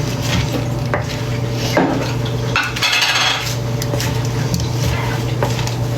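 Salad being tossed in a bowl with tongs: lettuce rustling and the tongs clicking and scraping against the bowl, with a louder rustle about three seconds in, over a steady low hum.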